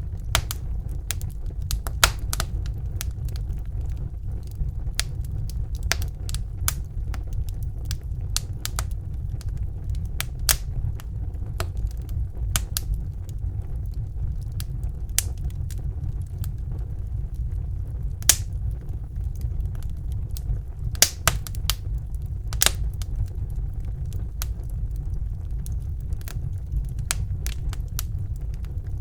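Fire burning in a fireplace: irregular crackling and sharp pops over a steady low rumble of the flames, with a few louder pops scattered through.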